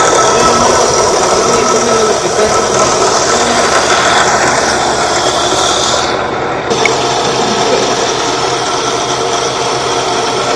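Homemade battery-charger rig built from a washing-machine motor running with a steady, loud mechanical noise. The high part of the sound drops out briefly about six seconds in, followed by a small click.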